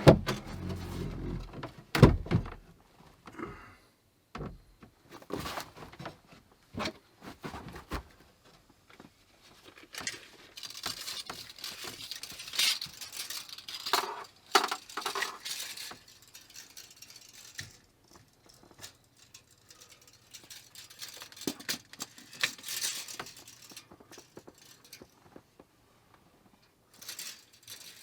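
Irregular clinks, knocks and rattling of tools and small metal hardware being handled on a workbench, with a few sharp knocks and stretches of jangling clatter.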